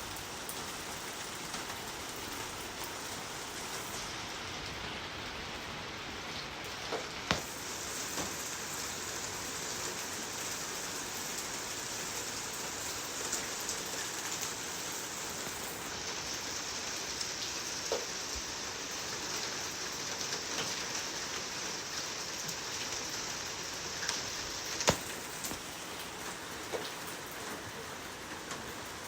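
Steady rain falling on a hard surface, a dense even hiss with a few louder single drops striking, the sharpest about a quarter of the way in and near the end.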